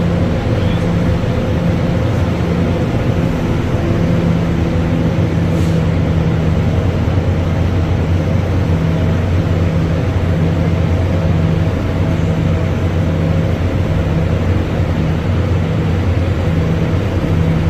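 Diesel locomotive engine running steadily with a low, even hum, holding the same level throughout.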